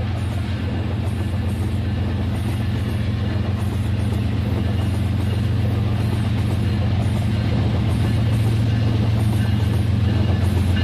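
Rail King toy train running on its track: a steady low motor hum with faint, regular ticking, slowly getting louder.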